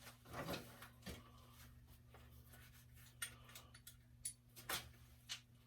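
Faint, scattered clicks and scrapes of a hand wrench working a bolt loose, over a steady low electrical hum.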